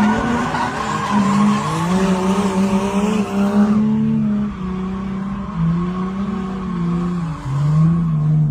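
Drift car's engine revving up and down, its pitch rising and falling constantly, with tyres squealing as the car slides; the tyre noise is strongest for the first few seconds and eases after.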